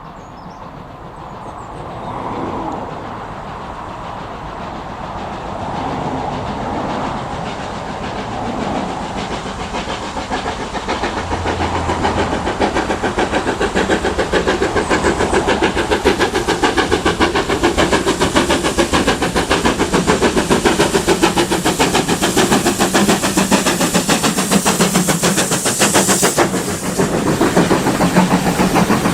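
Steam locomotive approaching with its train, a rapid, even beat growing steadily louder as it nears, with a burst of hiss near the end.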